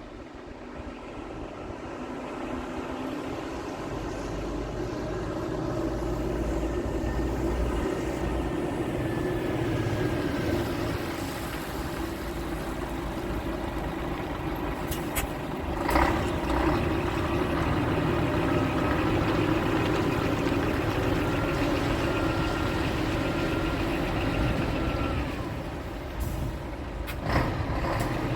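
A large engine running steadily, growing louder over the first few seconds, with two short sharp hissing bursts about halfway through and near the end.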